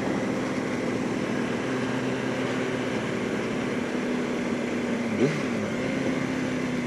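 Motorcycle engine running at a steady cruising speed under wind noise, with a brief rise in pitch about five seconds in.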